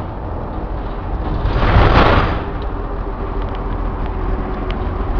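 Cummins diesel step van driving along at speed, heard from the cab: steady engine and road rumble, with a swell of rushing noise about two seconds in.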